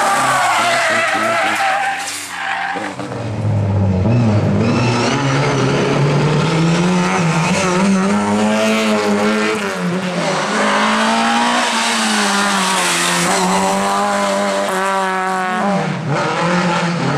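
Rally car driven hard, its engine pitch rising and falling with throttle and gear changes, with tyre squeal.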